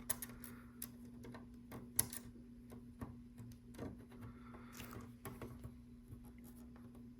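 Small plastic LEGO pieces clicking and tapping as they are handled and pressed into place, with a sharper click about 2 seconds in and some light rustling of pieces, over a faint steady hum.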